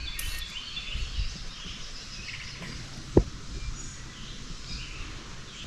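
Outdoor creekside ambience: birds chirping now and then, and insects, over a low rumble. One sharp knock comes about three seconds in.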